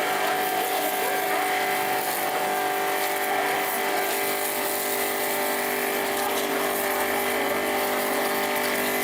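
A motor running steadily, with a constant whine of several fixed pitches over a dense hiss.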